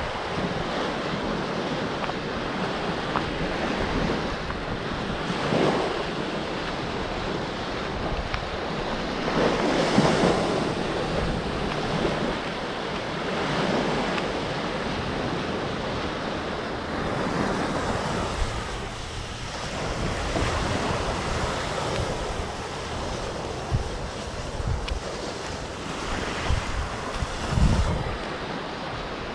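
Gulf of Mexico surf washing onto a sandy beach, the wash swelling every few seconds as waves break, with wind buffeting the microphone.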